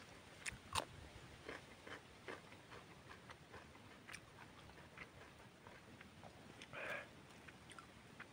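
A person chewing close to the microphone: a sharp bite into a winged bean about a second in, then faint chewing and wet mouth clicks.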